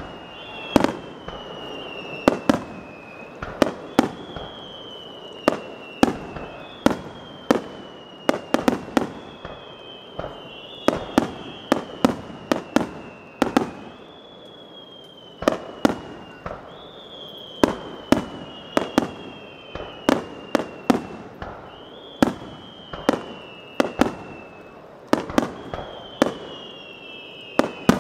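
Fireworks starmine: a rapid string of shell bursts, with sharp bangs and cracks coming about once or twice a second. Repeated high whistles fall in pitch between the bangs.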